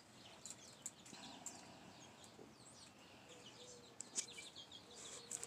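Faint, scattered high bird chirps over near quiet, with a few faint ticks about a second in and again about four seconds in.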